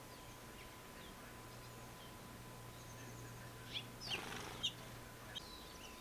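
Small songbirds giving a few short, high chirps clustered a little past the middle, with a brief rushing sound among them, over a faint outdoor background.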